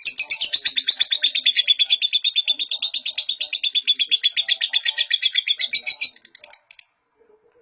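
Lovebird chattering in a long unbroken string of rapid high chirps, about a dozen a second. It stops about six seconds in, with a few weaker notes trailing off just after.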